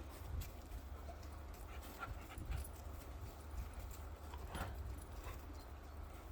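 Central Asian Shepherd dog and another dog moving about close together, with panting and scattered scuffs of paws. A brief, slightly stronger sound comes a little past the middle.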